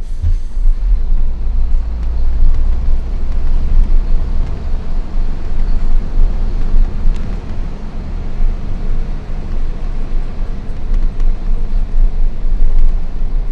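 Diesel engine of a Hino FL 260 JT dump truck running steadily under a heavy coal load: a loud, continuous low rumble with road noise.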